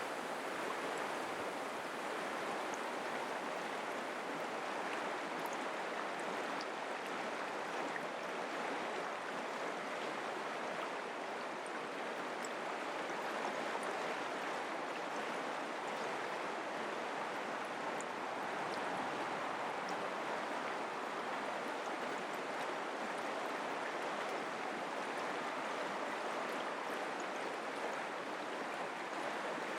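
Mountain creek flowing, a steady, unbroken rush of running water.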